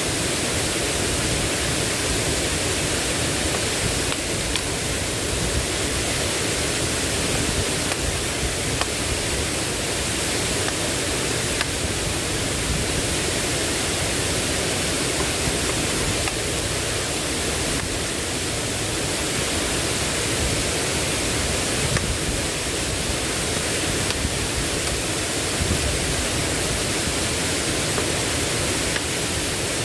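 Steady rushing of water: an even, unbroken hiss at a constant level, with no distinct strokes or tones.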